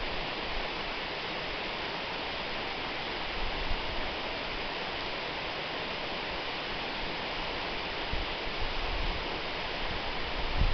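Waterfall rushing in a steady, even hiss of falling water. A few brief low rumbles rise out of it around a third of the way in and again near the end.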